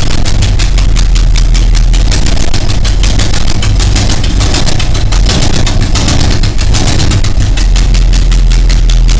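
1970 Dodge Charger's 440 cubic-inch V8 idling loudly, with a rapid, even banging beat from the exhaust: the sign of several blown exhaust gaskets on the passenger-side cylinder bank.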